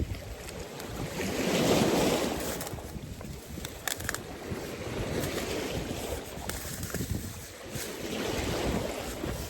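Sea waves washing onto the shore, swelling and ebbing twice, with wind on the microphone.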